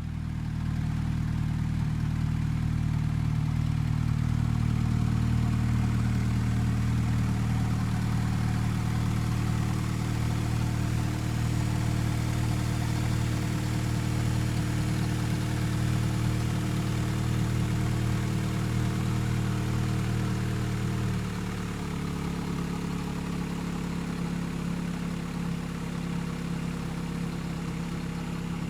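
Mercedes-Benz W210's 2.3-litre M111 inline-four petrol engine idling steadily, being run to show it works. About three quarters of the way through the idle note shifts and gets slightly quieter.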